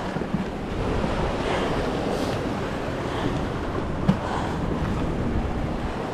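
Ocean waves washing against the jetty, with wind buffeting the microphone and a light knock about four seconds in.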